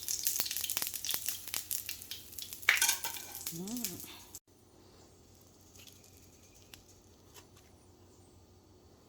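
Dense crackling, clicking noise of a utensil stirring and tossing salad ingredients with dressing in a bowl, with a brief rising-and-falling hum near its end. It cuts off suddenly about four seconds in, leaving quiet room tone with a few faint ticks.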